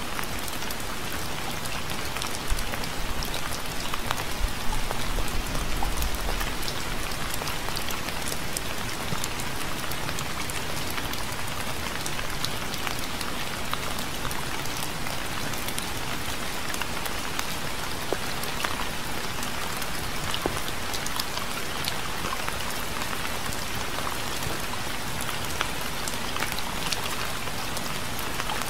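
Steady rain falling, with many separate drops heard striking a surface. About five seconds in there is a short low rumble.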